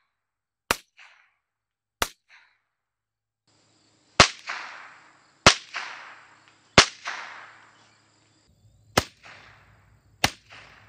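Ruger 10/22 semi-automatic rifle firing .22 LR Remington Thunderbolt rounds: seven single sharp shots, spaced about one to two seconds apart. The three middle shots ring out in long echoing tails.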